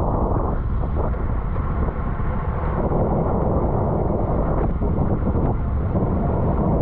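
Steady, loud wind rush buffeting a bike-mounted camera's microphone as a road bike rides at race speed.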